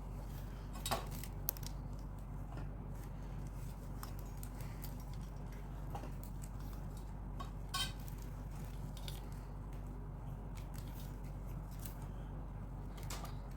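A few faint clicks and ticks of plastic weaving wire being handled and knotted, over a steady low electrical hum.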